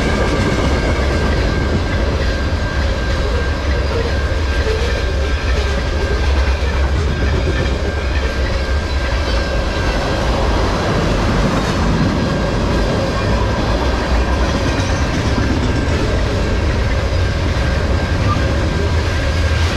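Long CN mixed freight train rolling past, its freight cars making a steady heavy rumble with a faint steady high tone over it.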